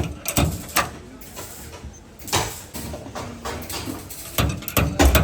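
Irregular knocks and clanks from body repair work on a car's damaged front end: single strikes spaced unevenly, with a quicker cluster of several near the end.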